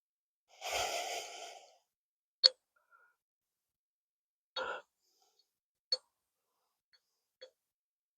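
A long exhale, then four short sharp clicks and taps spread over several seconds as the metal parts of a driveshaft U-joint are handled.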